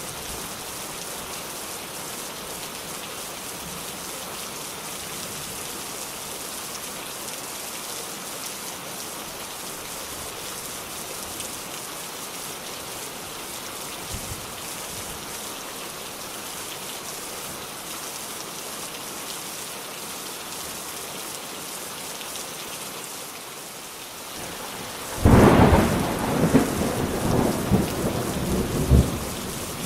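Steady rain falling, an even hiss. Near the end a loud thunderclap breaks in and rumbles for a few seconds.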